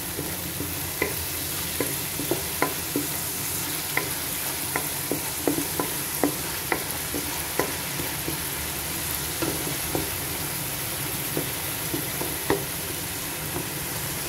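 A tempering of mixed seeds, fenugreek seeds, curry leaves, chilies and onion paste frying in hot oil in a pan while a wooden spatula stirs it. There is a steady sizzle with irregular sharp clicks, about one or two a second.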